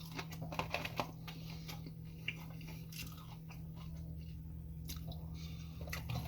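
Close-miked chewing of fried fast food, with short crunchy bites and mouth sounds over a steady low hum.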